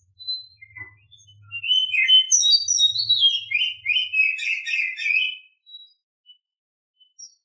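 Female oriental magpie-robin (kacer) singing a mating call: a rapid run of short, varied high notes, many falling in pitch, lasting about four seconds from a second and a half in, with a few scattered single notes before and after.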